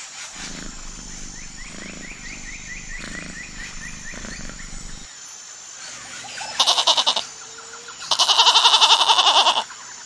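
Sheep bleating loudly: a short bleat, then a longer, quavering one about a second and a half long. Before them comes a quieter stretch with a low rumble and a run of faint high chirps.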